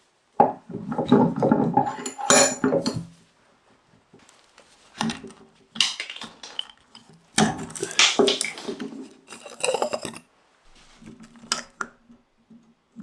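Loose metal parts clattering and clinking as they are handled, in four bursts of knocks with short quiet gaps between.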